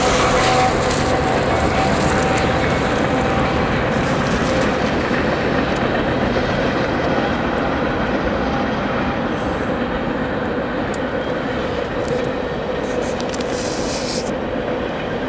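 Freight train passing: diesel locomotives running, then a string of tank cars rolling on the rails, a steady rumble that eases slightly toward the end. A faint steady tone runs under it.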